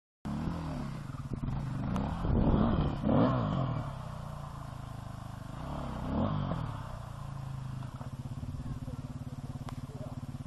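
Enduro dirt-bike engines revving in bursts, rising and falling in pitch about two to three seconds in and again about six seconds in, then settling to a steady idle.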